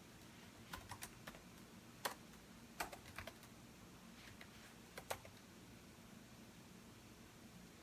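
Computer keyboard being typed in short, scattered clusters of keystrokes with pauses between; the typing stops a little after five seconds in.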